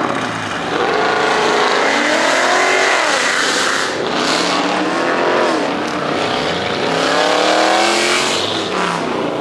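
Loud performance car engines accelerating, their pitch climbing and then dropping several times as they shift up through the gears.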